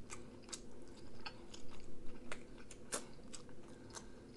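A person chewing food with the mouth, irregular clicks and smacks of chewing a few times a second.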